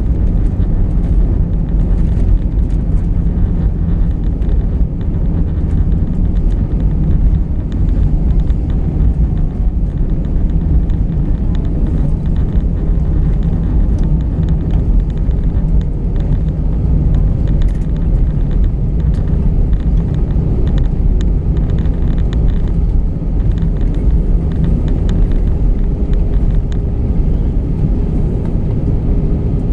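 Cabin noise inside an Airbus A319-132 around landing: a steady, loud low rumble from the engines, airframe and airflow, with a faint steady hum coming in during the second half.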